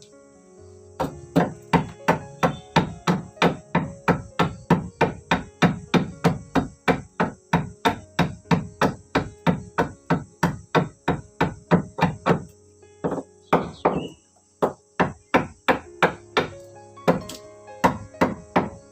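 A hand tool striking wood in a fast, steady rhythm of about three to four blows a second, like hammering or chopping. It breaks off briefly about two-thirds of the way through, then starts again.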